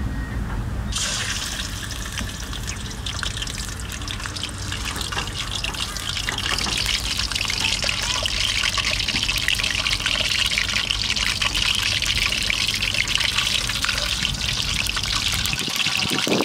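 A whole raw chicken sizzling and crackling in hot oil in a frying pan on a portable gas stove. The sizzle starts suddenly about a second in and grows louder a few seconds later, over a low steady rumble.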